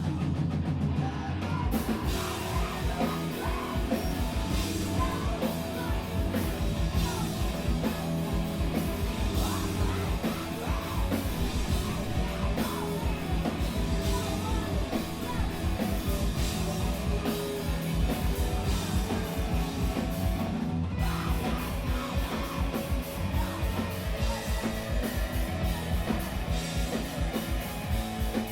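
Screamo band playing live at full volume: distorted guitars, bass and a fast, busy drum kit, with a brief break about two-thirds of the way through.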